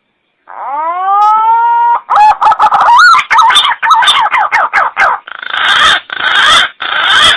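Green pigeon (punai) call used as a hunter's lure: a rising whistle, then a fast run of wavering whistled notes, ending in three harsh, rasping notes.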